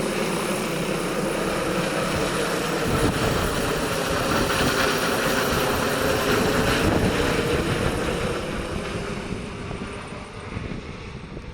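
Medical helicopter's rotor and turbine running loud and steady, swelling about three seconds in, then fading over the last few seconds.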